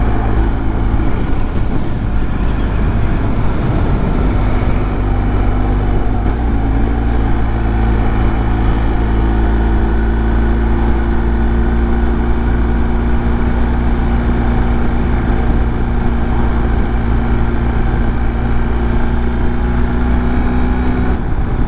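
BMW R1250 GS Adventure's boxer-twin engine running steadily at cruising speed, heard with wind and road noise from the moving motorcycle. The engine note shifts briefly about six seconds in.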